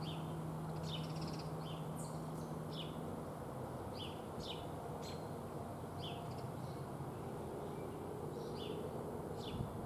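Small songbirds chirping: short, sharp, downward chirps repeated about once or twice a second. A low steady hum fades out about three seconds in.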